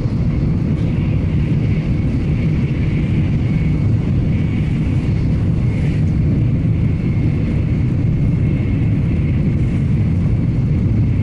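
Electric train running along the track: a steady low rumble with a faint high whine.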